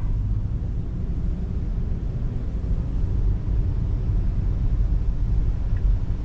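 Steady road and tyre noise heard from inside the cabin of a 2024 Tesla Model 3 electric car driving on a wet road, a low even rumble with no engine note.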